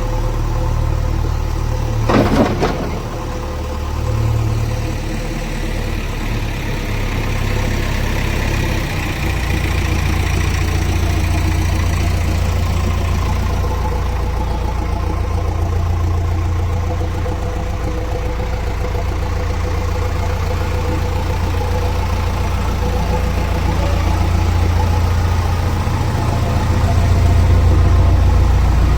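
Diesel engine of a JCB backhoe loader running steadily with a deep hum while it manoeuvres, its level rising and falling a little. About two seconds in there is one short, loud burst of sound.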